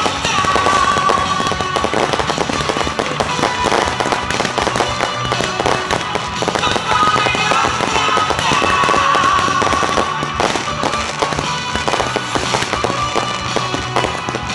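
Fireworks display going off in rapid, continuous crackles and bangs, with music playing along.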